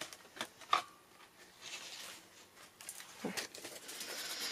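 Paper and card being handled on a craft table: a few light taps and clicks, with a brief soft rustle of paper about two seconds in and again near the end.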